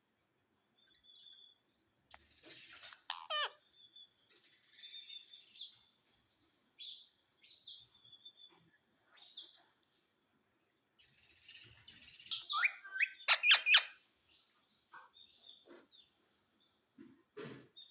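Indian ringneck parrot giving short chirps and calls on and off, with one call falling in pitch about three seconds in. The loudest stretch is a run of sharp squawks about two-thirds of the way through.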